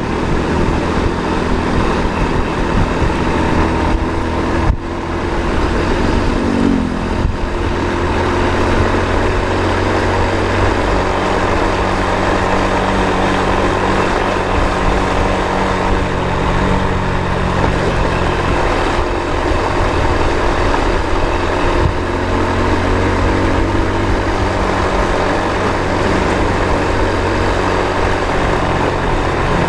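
Motor vehicle engine running steadily with road noise, with a short rise in engine pitch about six to seven seconds in.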